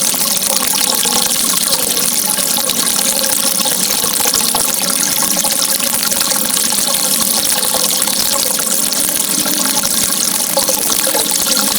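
Steady rushing of flowing water, an even, unbroken hiss with no distinct events.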